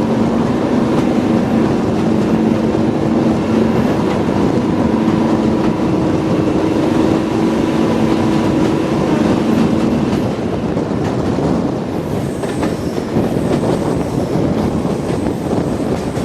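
Diesel train on the move: a steady engine note over rumble and wheel noise on the rails. The engine note drops away about ten seconds in, leaving only the rumble.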